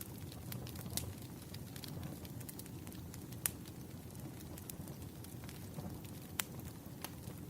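Wood fire crackling: scattered sharp pops and snaps, the loudest about one, three and a half and six and a half seconds in, over a steady low rumble of burning logs.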